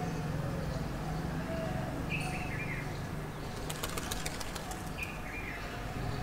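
Birds calling outdoors: a short chirping call repeats about every three seconds. About four seconds in comes a quick flutter of wingbeats as a bird flies off, over a steady low hum.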